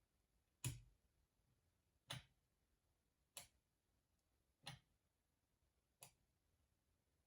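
Faint sharp clicks at an even pace, about one every second and a third, against near silence.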